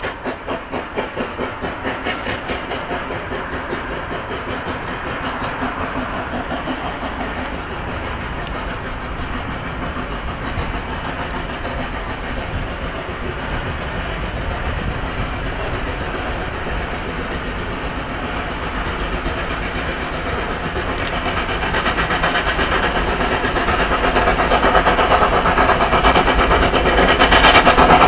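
Steam locomotive working a train, with a rapid regular beat, growing steadily louder as it approaches.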